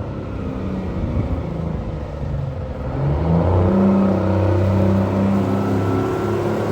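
Vintage truck engine running, growing louder about halfway through as it pulls away or passes close, then holding a steady drone.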